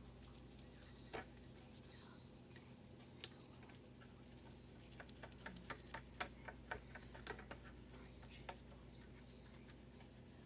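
Near silence over a low steady hum, with scattered faint clicks and taps, a quick cluster of them in the middle.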